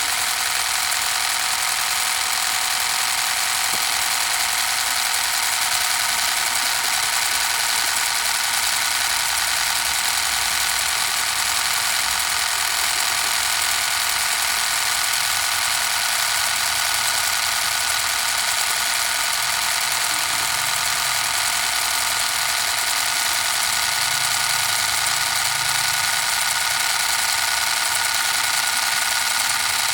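Small gasoline engine of a mini water pump running steadily, a high-pitched drone without change.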